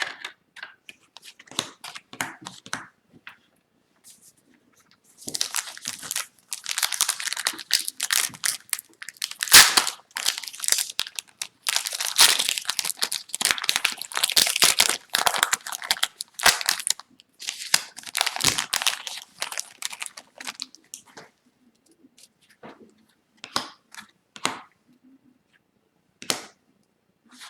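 Foil wrapper of an Upper Deck Series 1 hockey card pack being crinkled and torn open: a dense crackling and tearing that starts about five seconds in and lasts some fifteen seconds, with a sharp snap near the middle. A few faint taps follow near the end.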